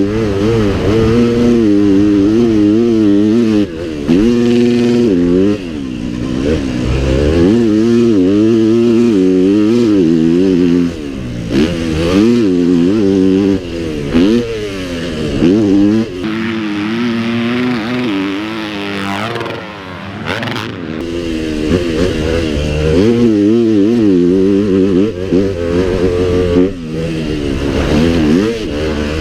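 Several pit bike engines racing around the track, revving hard and easing off again and again as they shift gears and take the jumps and turns, with their pitches overlapping. Near the middle one bike accelerates hard with a sharply rising whine.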